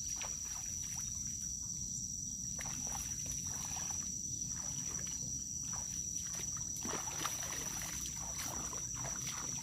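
Countryside ambience: a continuous high-pitched insect drone over a low rumble, with faint scattered ticks.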